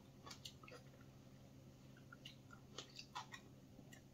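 Faint mouth sounds of someone eating a ripe plum: soft chewing with scattered small wet clicks and smacks, over a steady low hum.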